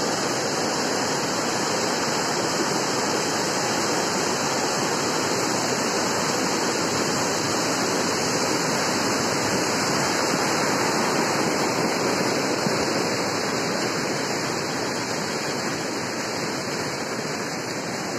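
Fast-flowing lahar floodwater (a rain-driven volcanic mudflow) rushing past, a steady, unbroken water noise that eases slightly near the end.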